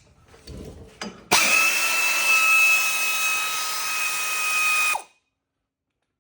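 Power ratchet spinning steadily with a high whine for about four seconds, loosening a bolt, then stopping abruptly.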